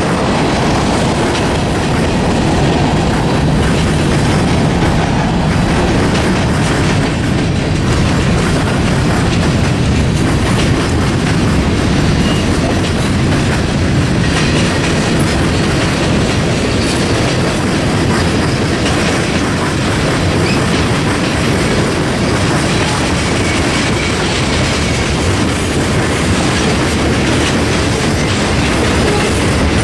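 Freight train cars rolling steadily past close by, their wheels clicking over the rail joints.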